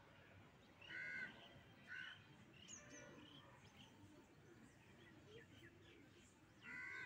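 Birds calling faintly outdoors: short calls about a second in, about two seconds in and near the end, with a few higher chirps in between, over quiet outdoor background noise.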